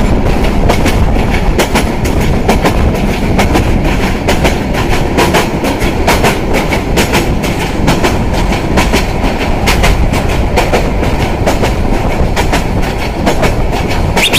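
Passenger train running at speed, heard at an open coach window: a loud rumble with the wheels clacking over the rail joints, irregularly, a few times a second.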